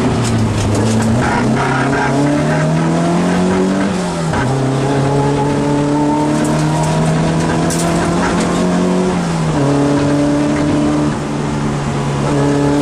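Rally car engine heard from inside the cockpit, pulling hard: its pitch climbs, drops sharply at a gear change about four seconds in, holds, drops again near ten seconds, and climbs once more near the end.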